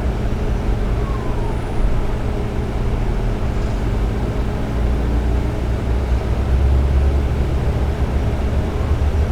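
KiHa 47 diesel railcar heard from inside while under way: a steady low diesel engine hum with running noise from the wheels and track.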